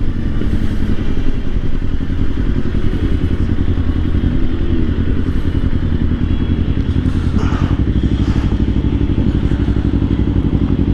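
Kawasaki Ninja 500's parallel-twin engine running at low revs, a steady even pulsing, with a few faint knocks part way through.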